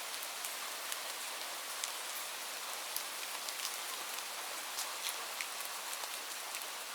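Light rain falling steadily, a soft even hiss with many separate drops pattering on a surface.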